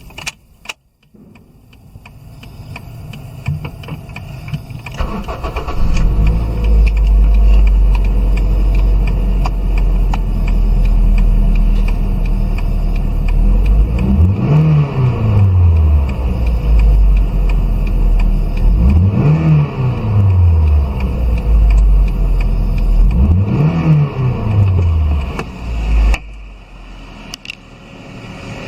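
Toyota MR-S's 1ZZ-FE 1.8-litre inline-four engine starting and settling into a steady idle, then revved three times, each rev rising and falling back. The engine note drops away near the end.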